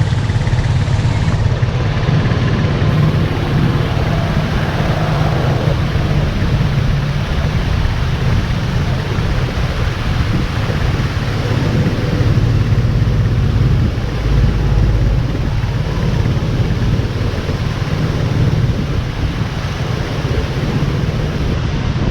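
Storm wind blowing against the microphone: a loud, steady rushing noise with a heavy low rumble.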